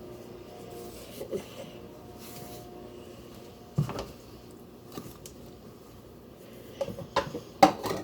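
A spatula scraping and knocking against a mixing bowl while a soft filling is folded, with a few sharp knocks about halfway through and a louder cluster near the end.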